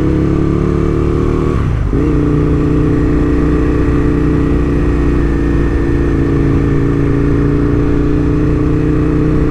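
Aprilia RSV1000's V-twin engine running under way, loud and steady. The note rises slightly, dips briefly about two seconds in, then holds steady.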